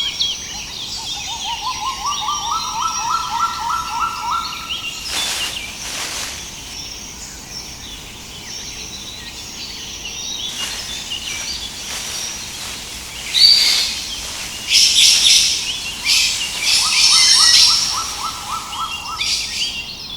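Several birds calling and singing together. One gives a rapid run of notes that climbs in pitch, early on and again near the end, while others chirp and trill higher up, loudest in a flurry about two-thirds of the way through.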